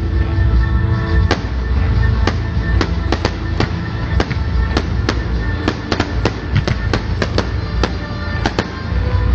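Fireworks bursting overhead: an irregular run of sharp bangs, several a second at times, over loud music with heavy bass.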